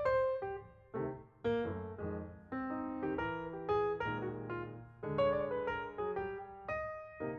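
Background piano music: chords and melody notes struck one after another, each ringing and fading.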